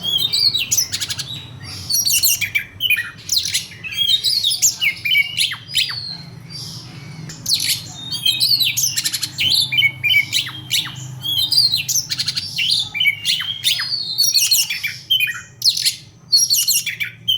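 Oriental magpie-robin (kacer) singing loudly in aggressive fighting mode: a rapid, varied song of quick whistled phrases mixed with harsh, rasping notes, broken by short pauses.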